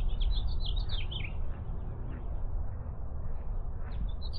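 Songbirds chirping and twittering in quick short notes, busiest at the start and again near the end, over a steady low rumble of wind buffeting the microphone.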